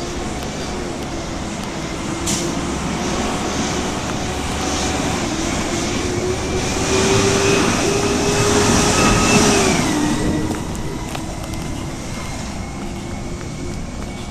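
Garbage truck running with a steady whine that climbs slightly and grows louder from about six seconds in, then drops back in pitch a little before ten seconds.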